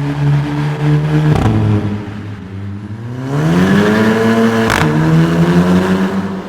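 Volkswagen Golf GTI MK7's turbocharged 2.0-litre four-cylinder engine running through an Akrapovic Evolution titanium exhaust. It holds a steady pitch, drops and goes quieter after a sharp break about a second and a half in, then climbs in pitch from about three seconds in and holds there.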